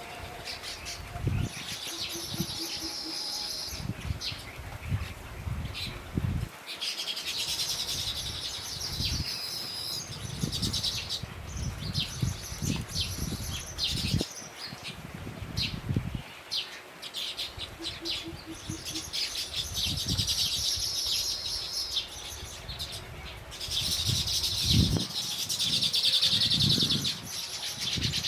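Small songbird's rapid high chirping in repeated bursts, the longest and loudest near the end, over irregular low thuds and rumble.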